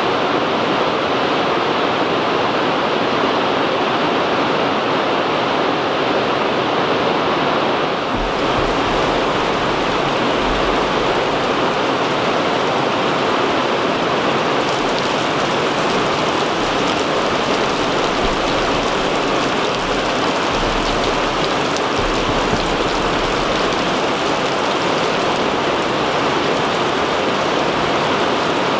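Heavy rain pouring down in a steady hiss during a thunderstorm. The hiss turns crisper about eight seconds in and again near the middle, with low rumbles coming and going underneath.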